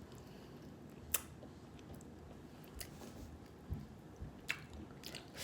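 Faint sounds of eating a blue crab: a sharp snap, typical of a crab shell cracking, about a second in, then a few small clicks and soft chewing.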